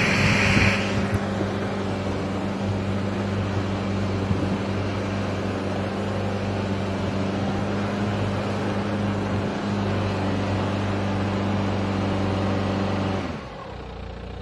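Opel car engine running at a steady speed with a brief hiss at the start, then dropping back to a quieter idle about a second before the end.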